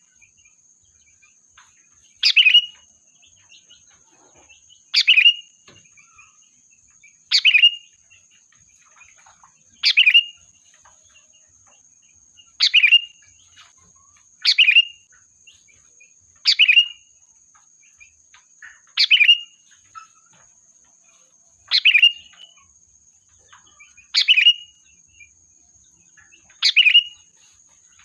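Sooty-headed bulbul giving short, sharp calls, one about every two and a half seconds, eleven in all: a lure call to draw in a flock.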